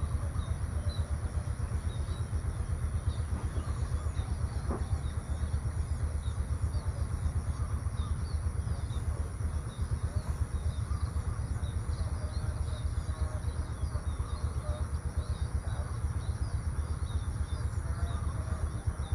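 Outdoor countryside ambience: a steady low rumble throughout, with many faint, short bird chirps over it and a thin, steady high hiss.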